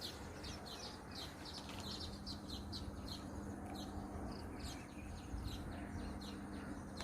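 Small birds chirping, quick high down-slurred notes repeated several times a second, over a steady low hum.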